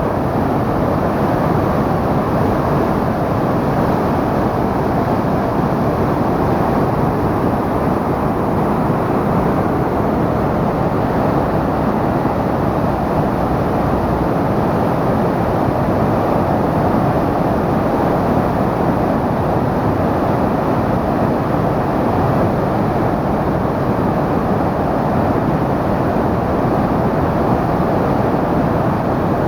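Steady, loud rush of the Tama River's water pouring over the Hamura weir, running high on the day of a typhoon.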